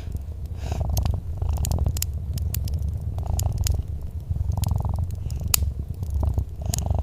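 A cat purring steadily, a low rumble that swells and eases with each breath, over the scattered sharp pops and crackles of a fireplace fire.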